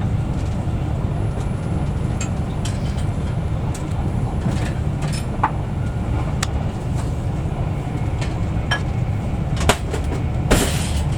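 Interior running noise of a Virgin Trains Class 390 Pendolino electric train: a steady low rumble with scattered sharp clicks and knocks, and a brief rush of noise near the end.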